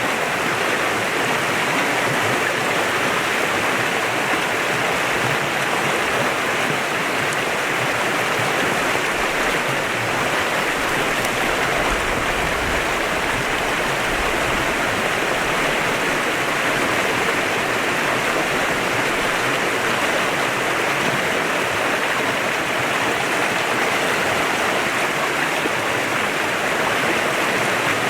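Clear mountain river flowing over rocks: a steady, even rush of water.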